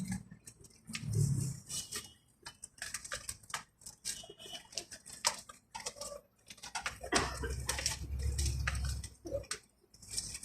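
Scattered irregular clicks and light knocks of parts and hand tools being handled during work on a car's manual window regulator, with a low muffled rumble about two-thirds of the way through.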